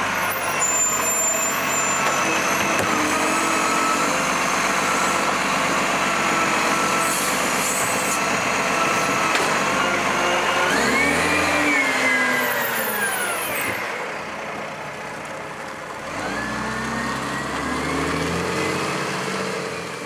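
Diesel garbage truck engine running steadily, then revving up and dropping back twice, its pitch rising and falling each time.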